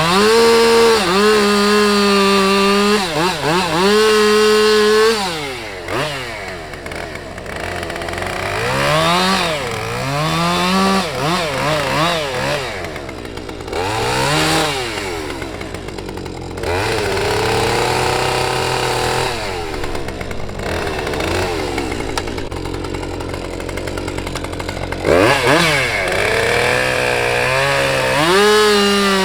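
Two-stroke chainsaw running hard, held at high revs, then revved up and down many times in quick sweeps. Its pitch sags to a lower steady note for several seconds, as it does under load in a cut, and climbs back to full revs near the end.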